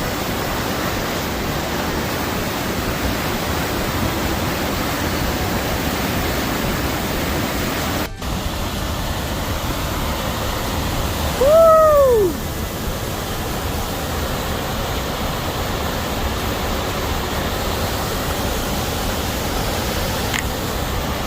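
Steady rushing of a waterfall. About twelve seconds in, one short call rises and then falls in pitch and stands out above the water.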